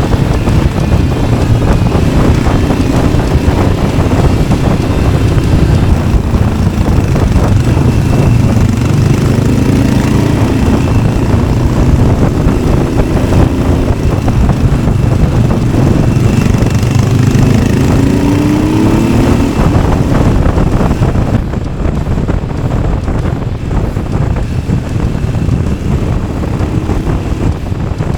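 Yamaha XT600's single-cylinder four-stroke engine running while riding, its pitch rising and falling with the throttle, with wind noise on the microphone. It gets a little quieter about three quarters of the way through.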